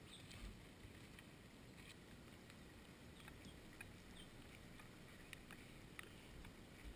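Near silence: faint outdoor ambience with scattered faint ticks and a few faint short high chirps.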